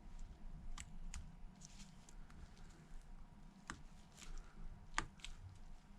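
Faint, scattered small clicks and taps from handling tiny phone parts and precision tools, a few sharp ticks with two close together near the end, over a low steady hum.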